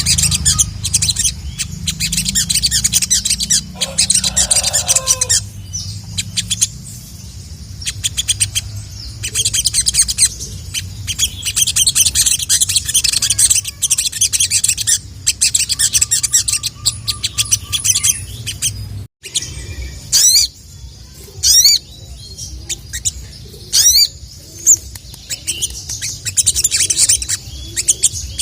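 Ruby-cheeked sunbird (sogon) singing: bursts of rapid, high chirping trills, with a few sharp sweeping whistles in the second half, over a low steady hum.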